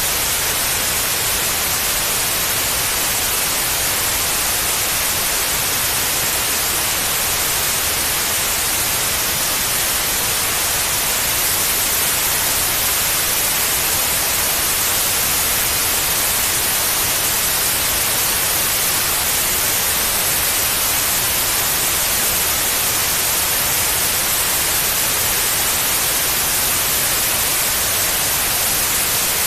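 Steady white noise: an even, unbroken hiss, brightest in the high frequencies, played as a sleep aid for babies.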